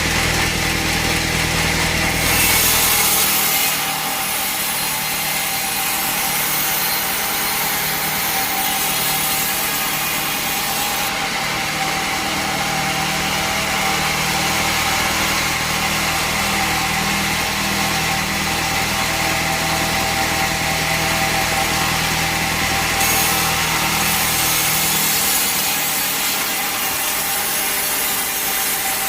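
Band sawmill blade cutting lengthwise through a teak log: a steady rasping hiss of the blade in the wood that fills in about two seconds in, over the steady hum of the mill's engine.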